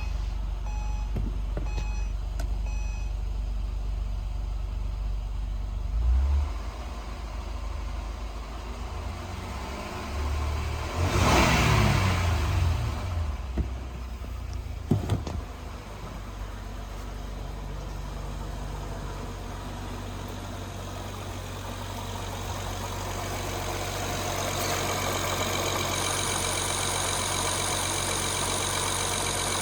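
2009 Acura TL's 3.5-litre V6 idling just after a start, with one brief rev about eleven seconds in that falls back to idle. A few short beeps sound in the first couple of seconds.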